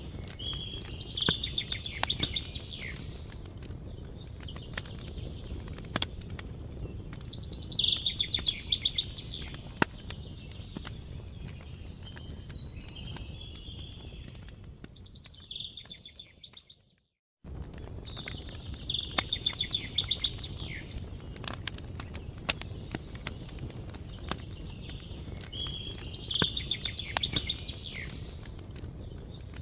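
Campfire crackling, with frequent sharp pops over a low steady rumble. A songbird sings short trilled phrases every few seconds. A little past halfway, everything fades out to silence for about a second, then cuts back in abruptly.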